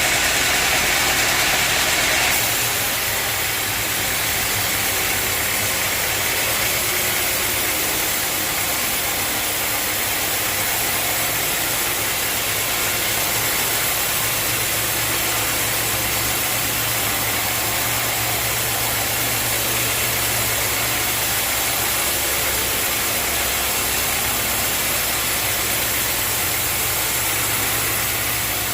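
Sawmill machinery, a band sawmill, running steadily with a low hum and a full hiss. About two seconds in, a brighter hiss drops away and the steady machine noise carries on.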